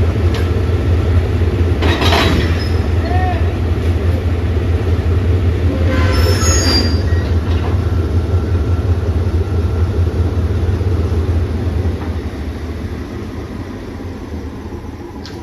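Diesel train running past with a steady heavy low rumble, with short high-pitched wheel squeals about two seconds in and again around six seconds in; the rumble fades away over the last few seconds.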